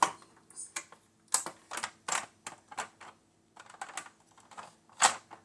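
Irregular sharp clicks and taps of hard plastic being handled: parts of a plastic toy aircraft knocking and clicking together as it is turned and moved, with the loudest click at the start and another near the end.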